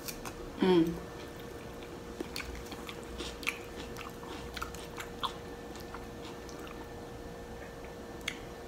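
Close-up chewing of loaded tater tots, with scattered sharp mouth clicks over the next few seconds. A short voiced "mm" with a falling pitch comes just under a second in, and a faint steady hum sits underneath.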